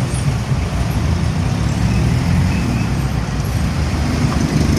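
Heavy road traffic, with large diesel trucks' engines giving a steady loud low rumble.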